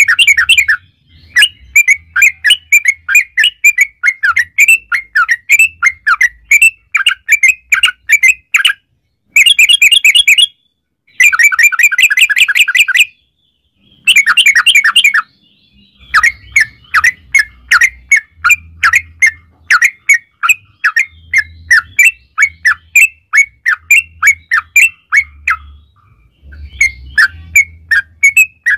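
Yellow-vented bulbul (trucukan) singing long, rapid runs of short bubbly notes, with several dense trills broken by brief silences between phrases.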